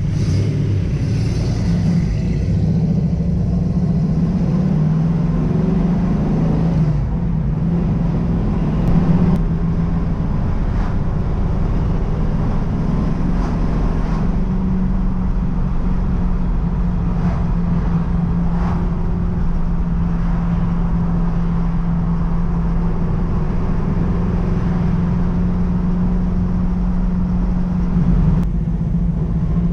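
Pontiac Firebird cruising on the road: a steady engine drone with road noise, the pitch shifting a little as speed changes.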